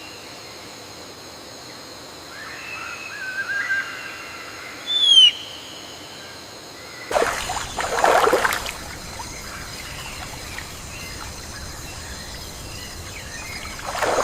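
Rainforest birds calling over a steady high-pitched hum: a warbling call, then a sharp falling whistle about five seconds in, then loud harsh squawks about seven seconds in and again near the end.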